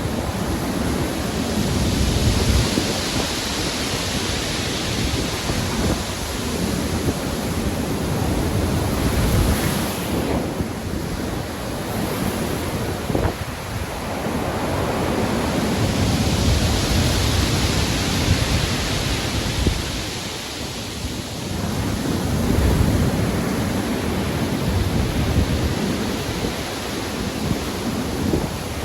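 Heavy ocean surf in a storm, waves breaking and washing in slow surges every several seconds over a continuous rumble of wind.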